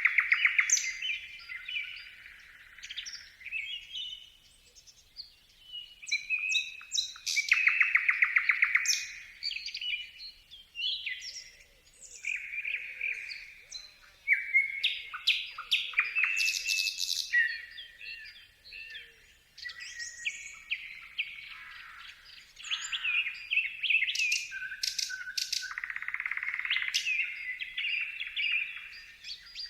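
Birdsong: a run of varied chirps and whistled phrases with rapid trills, separated by short pauses.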